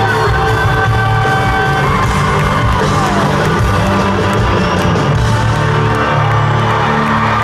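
Live band playing loud country-rock music, with crowd yells and whoops mixed in.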